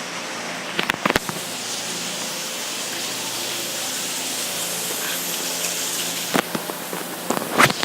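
Steady rushing of water, with a few sharp clicks or knocks: a cluster about a second in and another near the end.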